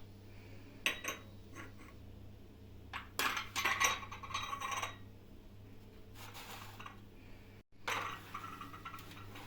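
Dishes and cutlery clinking and clattering as they are handled, in short bursts about a second in, for two seconds from about three seconds in, and again near the end, over a faint low hum.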